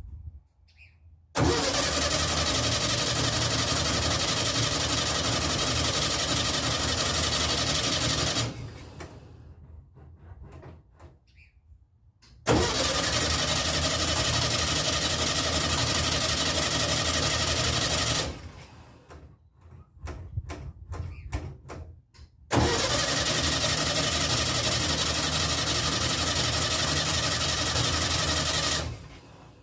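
Starter cranking the VW's air-cooled flat-four in three separate tries of about six seconds each, with short pauses between; the engine does not catch.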